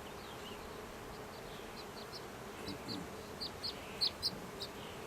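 Honey bees from an open hive buzzing as a steady hum. In the second half, a string of short high chirps, the loudest two just after four seconds in.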